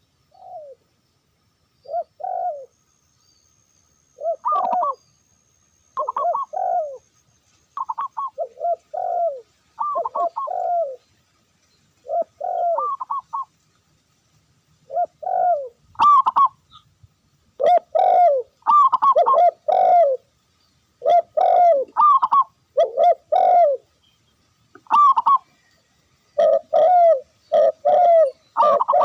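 Doves cooing: short, falling coo notes in quick little phrases, coming more often from about halfway through.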